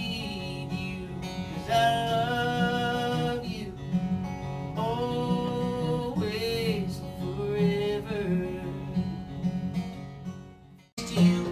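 Live acoustic guitar strumming with a man singing long held notes over it. The sound cuts out briefly near the end, then the guitar and voice come back in.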